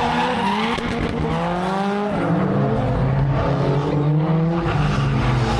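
Several go-kart engines running on a track at once, their pitches rising and falling and overlapping as they rev and ease off.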